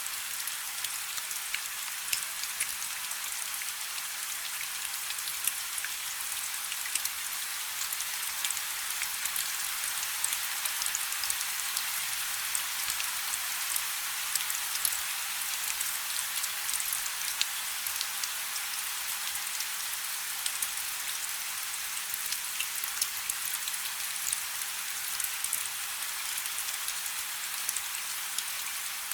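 Light rain falling steadily: an even hiss dotted with many small, sharp drop ticks.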